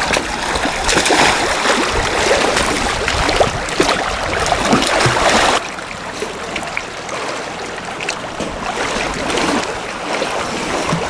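Flowing river water rushing and splashing as sheep are washed in it, with scattered sharp splashes. About halfway through the sound drops suddenly to a quieter, steadier rush of water.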